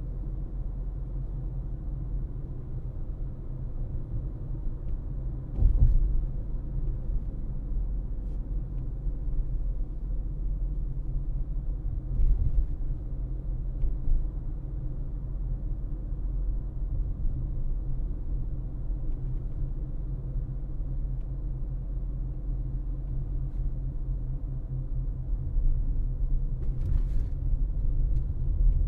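Car on the move with a steady low road and engine rumble. Two louder thumps come about six and twelve seconds in.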